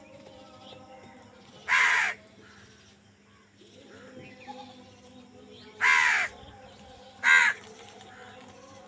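A crow cawing three times: two longer harsh caws about four seconds apart, then a shorter one just over a second later.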